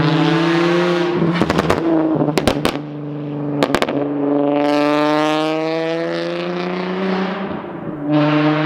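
Infiniti G35 coupe's 3.5-litre Rev-Up V6 through a Tomei single-exit 3-inch exhaust with test pipes. It revs with several sharp exhaust pops in the first few seconds, then pulls up steadily in pitch under acceleration and lets off near the end.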